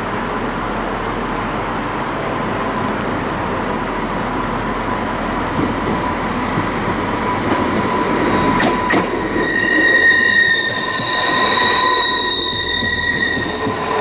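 A train running past on the rails with a steady rumble. A little after halfway come two sharp clicks, then the wheels squeal in several high, steady tones for about four seconds before fading.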